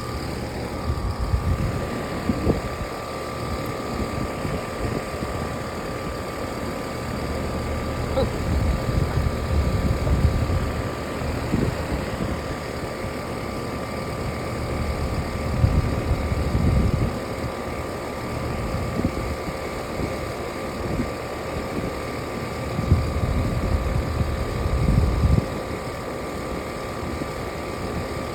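A machine running steadily, with a high steady whine that sets in about a second in over a low rumble. Gusts of wind on the microphone come and go.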